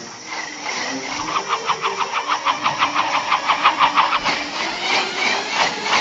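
Car engine cranking on its starter in an even beat of about six or seven a second; about four seconds in the beat breaks up.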